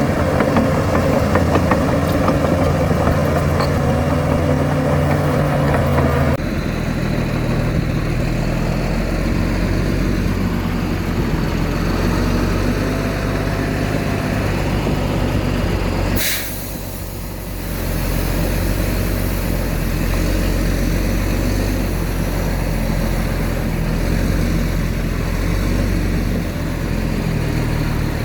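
Heavy diesel earthmoving machinery running steadily, with its engine note shifting abruptly about six seconds in. About sixteen seconds in there is a single short, sharp burst, and the engine sound drops briefly before it picks up again.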